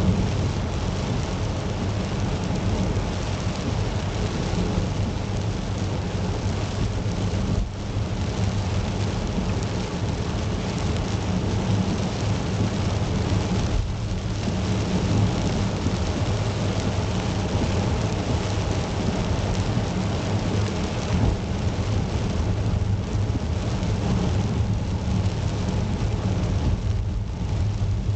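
Steady rain falling on a car, with a constant low rumble underneath.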